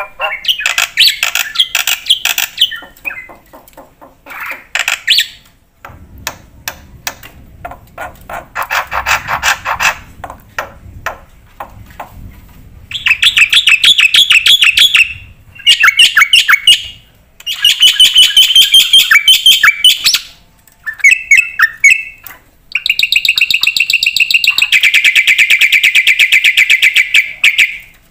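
Black-winged myna (jalak putih) singing a long, varied song: loud phrases of fast rattling trills and chatter, broken by short pauses and quieter clicking passages, ending in a long unbroken trill.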